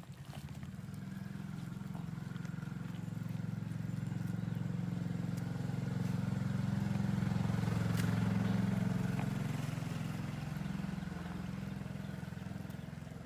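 A small engine running with a low hum, growing louder to a peak about two-thirds of the way through, then fading.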